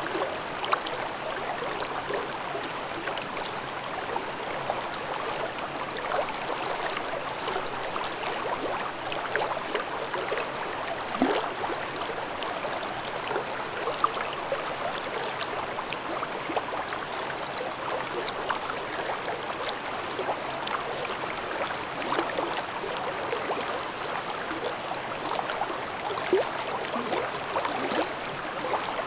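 Mountain stream babbling over rocks in a ravine: a steady rush of water with many small splashes and gurgles.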